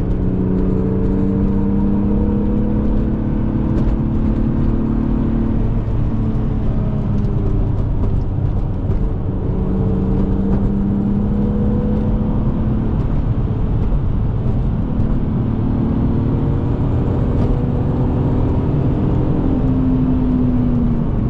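BMW E36 M3's inline-six, with an aftermarket intake and exhaust, heard from inside the cabin while being driven hard on track: the engine note climbs steadily under acceleration, falls away about six seconds in and again about two-thirds of the way through as the driver lifts or shifts, then climbs again. A constant road and tyre rumble runs underneath.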